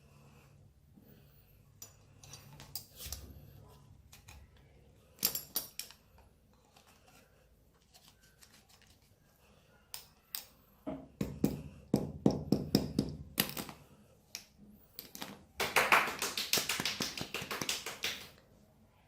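Light metallic clicks and taps from a hand tool being handled, with a few scattered strokes early on and two quick runs of rapid clicking in the second half, the later run the loudest.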